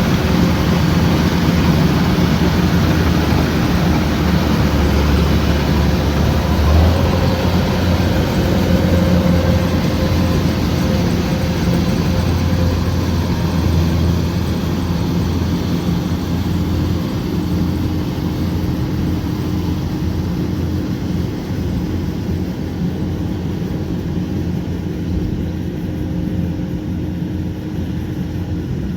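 Kubota combine harvester's diesel engine running steadily. Its low hum shifts about seven seconds in, and the sound grows slowly quieter toward the end.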